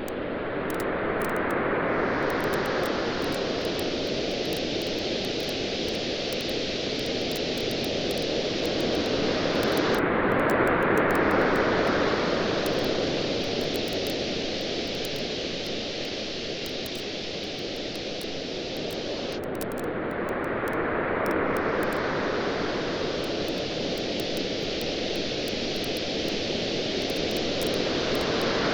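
Waves washing on a beach, a steady hiss that swells and eases about every nine seconds, with the faint crackle of a campfire scattered throughout.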